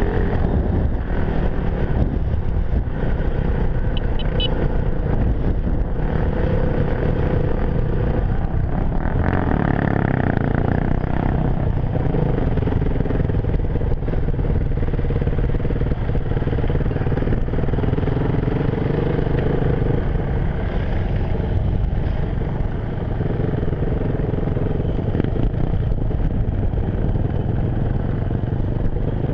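Enduro dirt bike engine running continuously while riding, its pitch rising and falling with the throttle.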